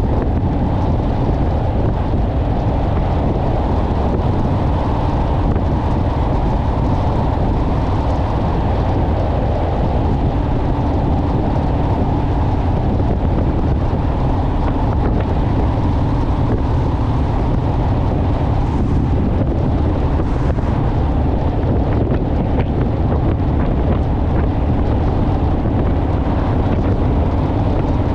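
Wind buffeting the microphone of a motorcycle at road speed, a steady rush, with the motorcycle engine's even drone underneath.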